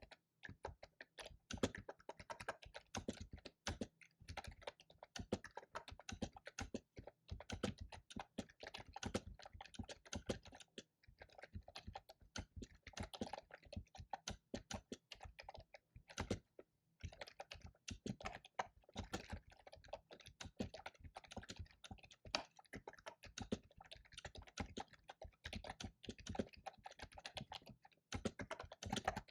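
Computer keyboard typing in quick runs of key clicks, with brief pauses about eleven seconds in and again around sixteen seconds.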